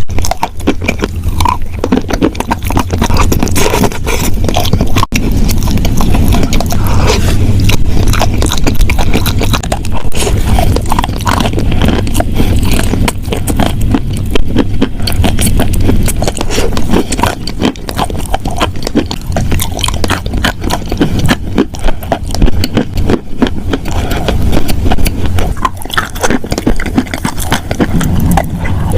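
Wet chalk crunching close to the microphone: a loud, dense, irregular crackling of many small crunches with no pause.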